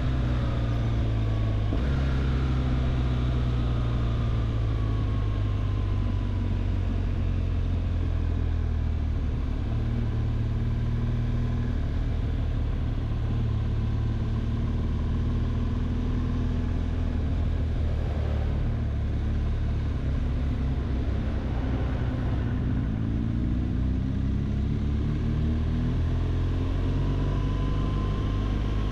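BMW R 1200 GS boxer-twin engine running steadily under way, its note falling over the first few seconds and rising again near the end.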